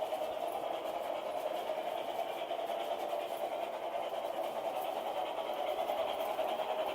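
LGB Mogul G-scale model steam locomotive running steadily on its track, a continuous mechanical whir from its motor, gearing and wheels.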